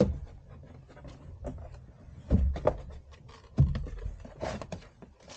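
A cardboard shipping package being handled and opened: dull thumps, the loudest two about two and three and a half seconds in, with scattered clicks and rustling.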